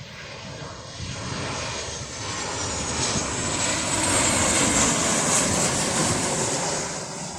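Jet engines of a Jet2 Boeing 737 airliner flying past. A steady rushing noise with a high whine swells to its loudest about four to six seconds in, then begins to fade.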